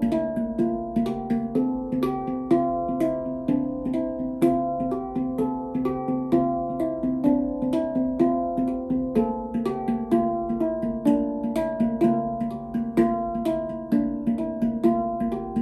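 Stainless-steel D Kurd handpan, ten notes tuned to 432 Hz, played by hand at a steady flowing pace of about three to four strikes a second. The ringing notes overlap one another, and each strike has a short sharp attack.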